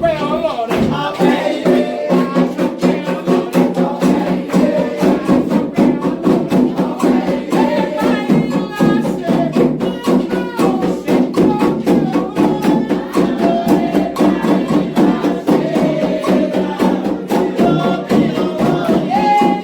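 Candomblé ritual music: atabaque hand drums playing a fast, steady rhythm with a struck bell, under voices singing a chant.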